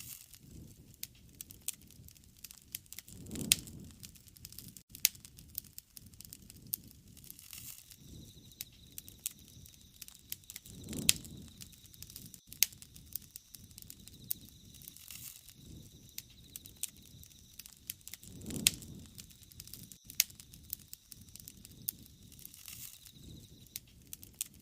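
Wood fire crackling, with sharp pops and snaps scattered throughout and a low rush from the flames swelling about every seven or eight seconds. A faint thin high whistle runs through the middle.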